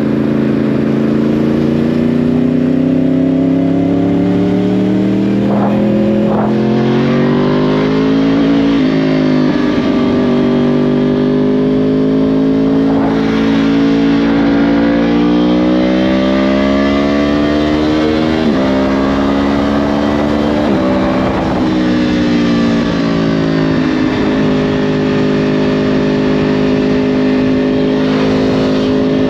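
2010 Yamaha R1's crossplane-crank inline-four through a Yoshimura exhaust, accelerating under load. The engine pitch climbs for several seconds, then drops sharply at four upshifts, with shorter climbs between them, and holds a steady pitch near the end.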